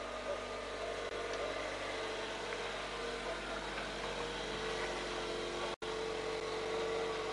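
Police patrol car's engine running steadily close by as the car rolls slowly past. The pitch steps up slightly about four and a half seconds in, and the sound cuts out for an instant just before six seconds.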